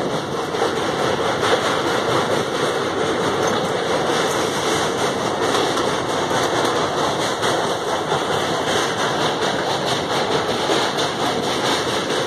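Steady running noise of a moving passenger train, heard from inside the coach at the window: wheels on the rails with a faint regular clatter.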